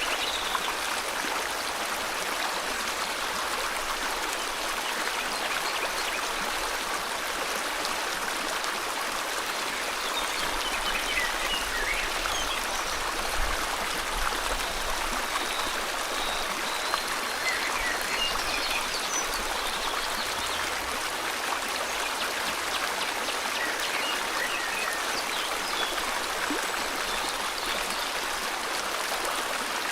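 Steady rush of a flowing river, with faint bird chirps now and then.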